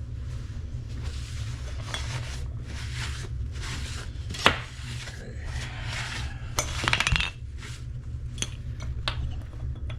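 Metal tools and plumbing fittings being handled under a sink: intermittent scraping and rubbing, a sharp metallic clink about four and a half seconds in and a quick rattle of clinks around seven seconds, over a steady low hum.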